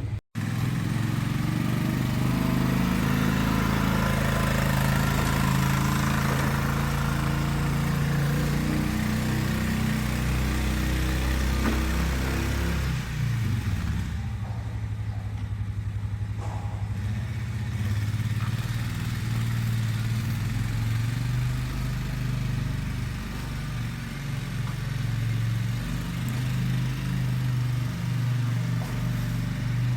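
An engine running steadily with a low hum, its pitch shifting up and down a few times.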